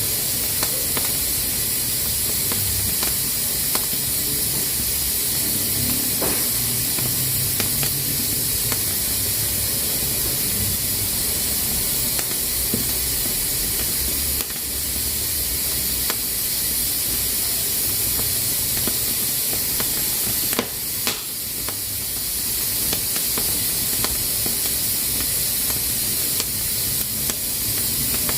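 Pressure cooker venting steam through its valve with a steady hiss, with scattered faint clicks through it and a brief dip and flurry of clicks about two-thirds of the way in.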